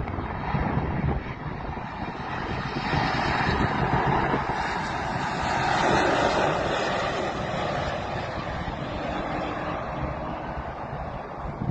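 Jet airliner flying low overhead: a noisy rush that swells from about three seconds in, is loudest around six seconds, then slowly fades, with wind buffeting the microphone.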